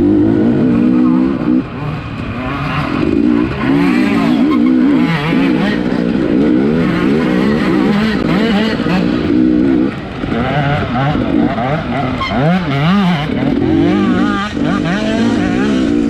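Off-road racing motorcycle engine revving hard and falling back again and again, its pitch rising and dropping every second or so under constant throttle changes.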